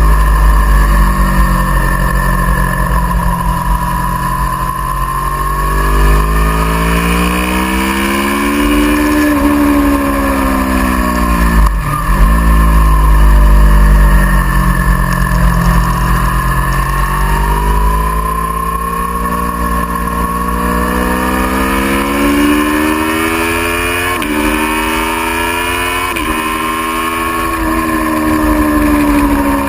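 Aprilia Tuono V4R's 1000 cc V4 engine heard from on board at track speed, revs rising and falling as it accelerates and brakes through corners, dropping sharply and climbing again about twelve seconds in, and stepping down with quick upshifts near the end. Heavy wind rumble on the microphone lies under the engine.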